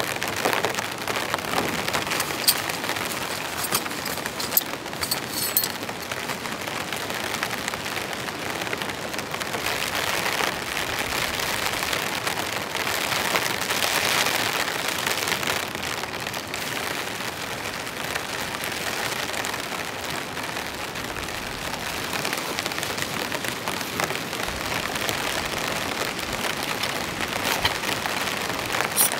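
Heavy rain falling steadily, with fine drop ticks and some louder gusts of rain around the middle.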